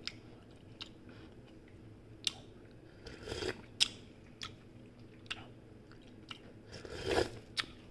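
A person chewing a mouthful of instant ramen noodles, with scattered small wet mouth clicks and two short louder noisy sounds, about three and seven seconds in.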